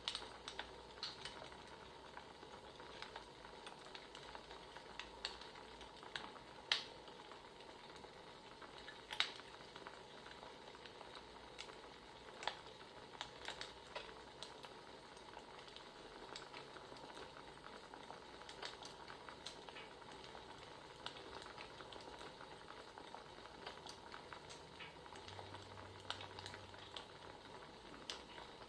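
Crackling wood fire: a faint steady hiss with irregular sharp pops and snaps, the loudest two about a third of the way in.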